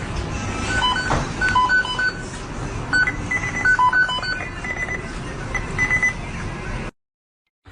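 A string of short electronic beeping tones at a few different pitches, stepping like a simple tune, over a steady background noise; it cuts off abruptly near the end.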